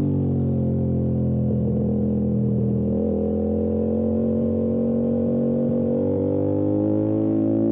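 Motorcycle engine running under way: its note eases down as it slows, holds steady through the middle, then rises as it accelerates near the end.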